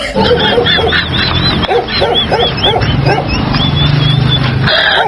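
Animal calls: a fast run of short, arching high cries, about four a second, turning to a few flatter, longer cries after about three seconds, over a steady low hum.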